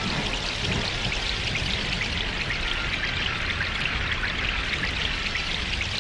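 Steady rain with many small drop ticks, just after a thunder crack.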